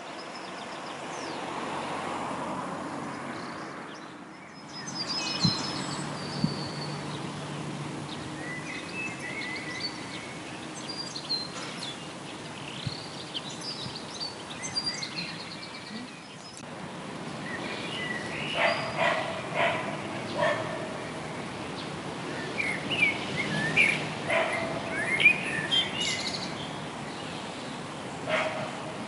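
Several songbirds singing and calling over a faint steady background hiss. The song grows busier in the second half.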